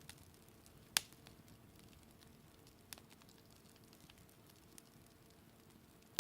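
Wood campfire burning with a faint crackle and a few sharp pops, the loudest about a second in.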